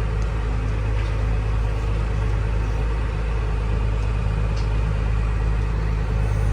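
Tractor engine running steadily at a constant speed, with a low, even drone while it pulls the cattle feeder wagon.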